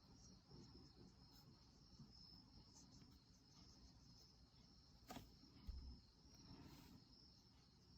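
Near silence: room tone with a faint steady high-pitched tone, and a single soft click about five seconds in.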